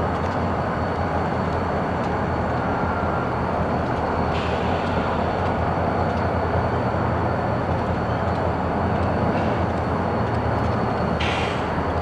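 Steady rumble of a diesel switching locomotive and freight cars moving through the yard during a switching move, even in level throughout.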